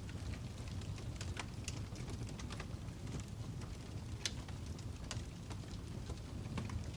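Wood fire crackling: scattered sharp snaps and pops over a low steady rumble, with one louder pop about four seconds in.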